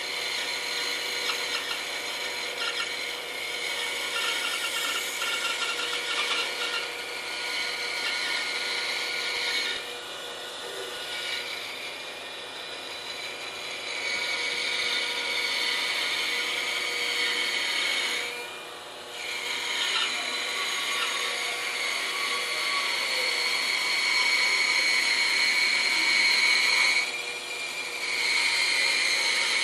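Bandsaw cutting through a solid wood 4x4 block, a steady machine hum under the hiss of the blade in the wood. The cutting sound eases off briefly three times as the feed pauses.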